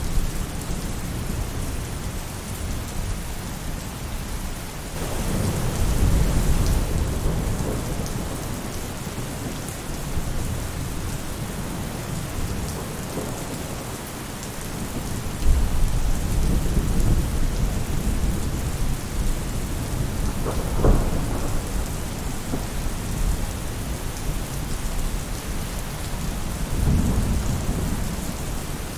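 Steady rain falling on a roof, with rolling thunder rumbling up three times.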